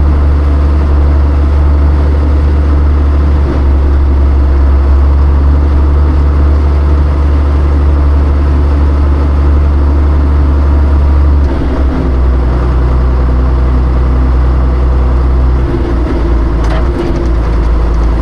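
Classic John Deere tractor engine running steadily while plowing snow, its pitch dropping and rising in steps a few times as the engine speed changes. A few brief clanks come near the end.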